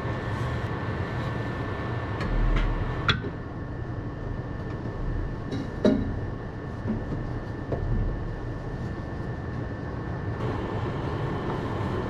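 Sharp metallic clicks and knocks, with a few dull thumps, from tools and parts being handled during reassembly of a skid loader's engine. The sharpest clicks come about three and six seconds in, over a steady background hum.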